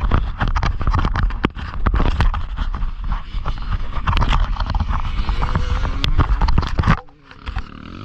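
Dirt bike riding with heavy wind rumble and rapid knocks and rattles on the microphone, the engine faintly heard rising in pitch. The noise cuts off suddenly about seven seconds in.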